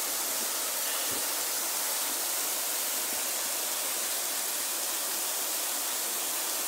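Waterfall rushing: a steady hiss of falling water that holds an even level throughout.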